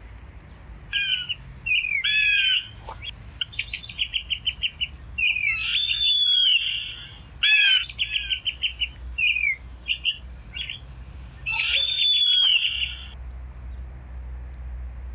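A bird calling loudly in a quick series of chirps, rapid trills and slurred notes. It starts about a second in and stops near the end, over a low steady rumble.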